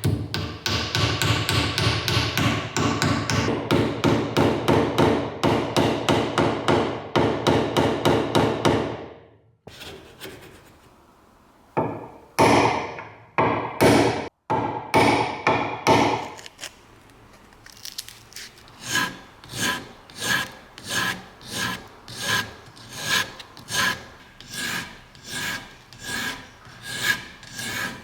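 Back-and-forth rasping strokes of a hand tool on a workpiece. Quick, even strokes run for about nine seconds, then stop. After a short pause come a few heavy strokes, then slower, steady strokes about once a second, each with a slight ringing tone.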